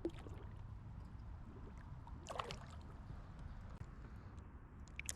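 Faint water sounds around a kayak on the lake, with a few light clicks and one brief, slightly louder noise about two seconds in.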